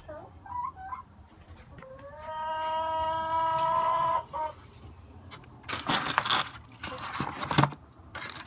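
Domestic hen calling: a few short clucks, then one long drawn-out squawk that rises at its start, about two seconds in. Near the end come a few seconds of loud scuffling and rustling.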